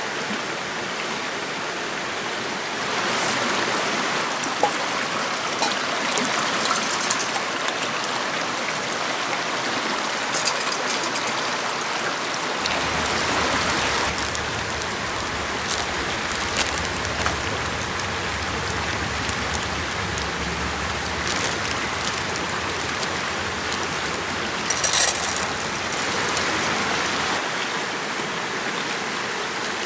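Steady rush of running water, with scattered small clicks and knocks and a short cluster of sharper clicks near the end. A low rumble joins underneath about halfway through and fades before the end.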